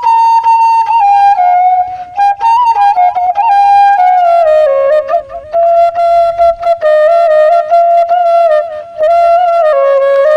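Bamboo flute (bansi) playing a solo melody: a run of quick ornamented notes early on, then a phrase that steps down and settles on long held lower notes, dipping lower again near the end.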